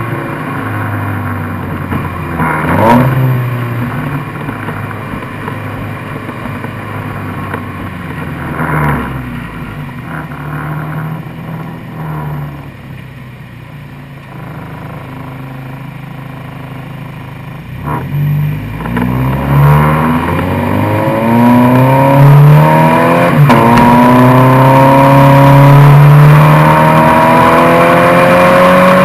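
Subaru BRZ / Scion FR-S flat-four engine and exhaust, with a few short revs in the first ten seconds and a quieter stretch after. About twenty seconds in, it pulls hard with the pitch climbing, breaks briefly for a gear change, then climbs again and is loudest near the end.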